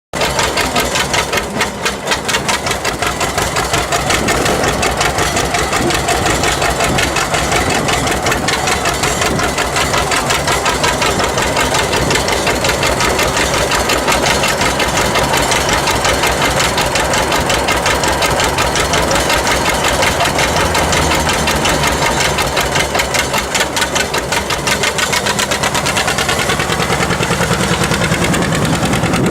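1954 John Deere 60's two-cylinder engine running steadily with its putt-putt exhaust beat.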